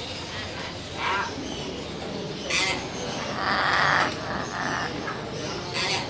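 Caged birds calling: a few short, harsh squawks over a steady background, the loudest a rasping call of under a second near the middle.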